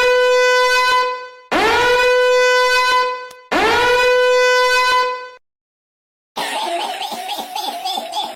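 Three identical long horn blasts on one steady note, each about a second long with a brief scoop up in pitch at the start and a short silence between them, followed near the end by about two seconds of rougher, noisier sound.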